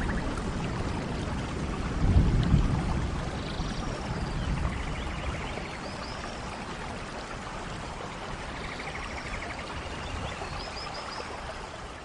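Steady rainforest rain, with a louder low rumble about two seconds in that eases off; short chirping bird calls and trills come through over it every few seconds, and the whole sound slowly grows quieter.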